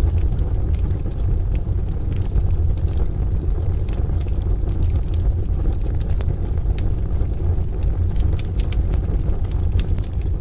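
Wood stove fire crackling, with irregular sharp pops and snaps over a deep, steady low rumble.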